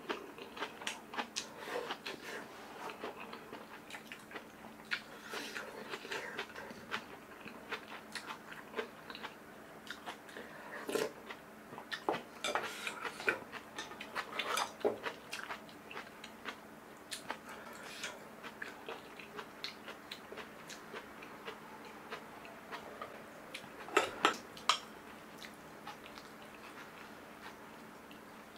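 Close-miked chewing and mouth sounds of a person eating kimchi stew with rice, with wet clicks coming thick and fast at first and thinning out later. A spoon clinks against a bowl twice, sharply, a few seconds before the end.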